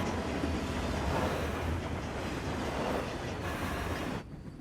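Train sound effect: the steady noise of a moving train, cutting off suddenly about four seconds in.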